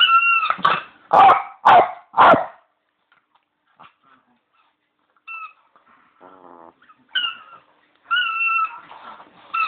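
A Bichon's squeaky toy bone squeaking in short and longer squeezes as he chews it. Around the first two seconds the dog barks three times, and about midway there is a brief low growl.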